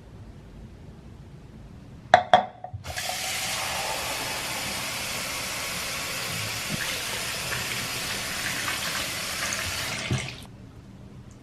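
A couple of sharp clicks, then a water tap running steadily into a sink for about seven and a half seconds before it is shut off.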